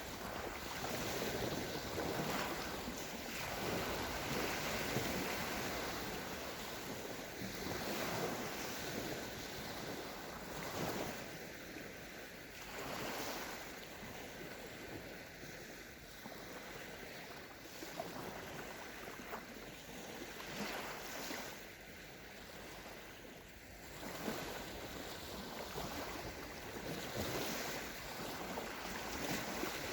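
Small sea waves breaking and washing on a sandy shore, swelling and falling back every few seconds, with some wind.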